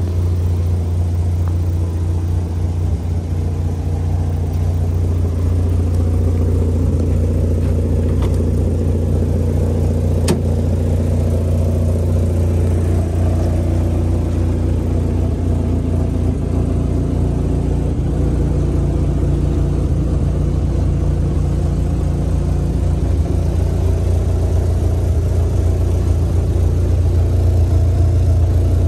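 Car engine idling steadily, a deep, even hum, with one faint click about ten seconds in.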